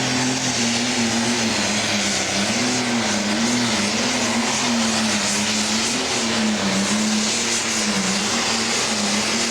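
Pro stock pulling tractor's turbocharged diesel engine running hard under load down the track, its pitch wavering up and down.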